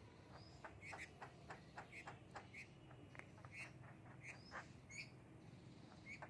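Faint, short bird chirps, irregularly about once or twice a second, mixed with light clicks and taps.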